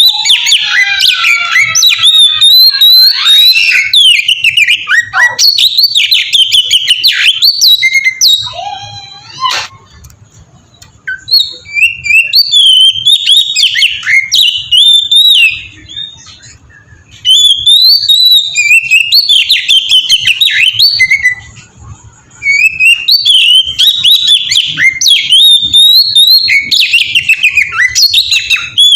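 Oriental magpie-robin (kacer) singing loudly in rapid, varied whistled and chattering phrases, broken by brief pauses about a third of the way in, around the middle and again about three quarters through.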